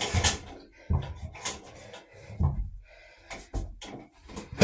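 Irregular knocks and clatters from a drain inspection camera and its push rod being worked against tree roots that block the pipe. A few of the knocks carry a dull thud, about a second in and again near the middle.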